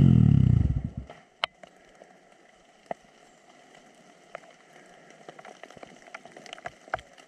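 Honda CRF250 dirt bike engine dropping in revs and cutting out about a second in. It is followed by a faint hush with scattered sharp ticks.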